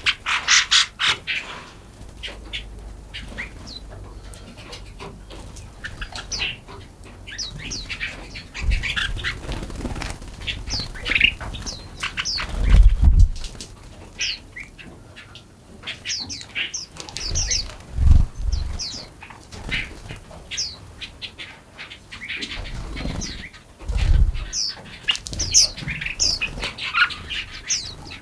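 Several forest songbirds chirping and singing, with many short, quick notes overlapping throughout. A few low thumps stand out about every five or six seconds.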